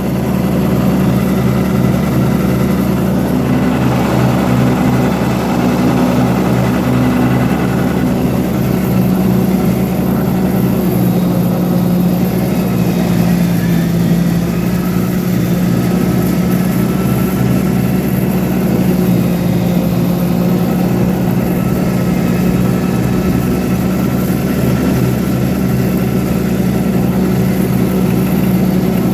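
Iseki TMG18 compact tractor's engine running at a steady speed, a constant low hum with an even pulse.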